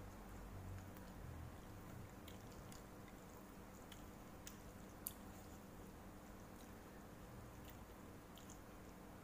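Faint chewing of a mouthful of noodles, with a few small clicks scattered through, the sharpest about five seconds in.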